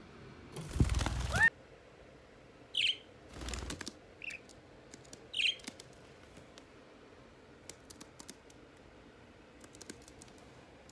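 Pet parrot giving three short chirping calls, a few seconds apart. Before them, about a second in, comes a loud rustling flutter, the loudest sound here, with a weaker one soon after. Faint small clicks follow near the end.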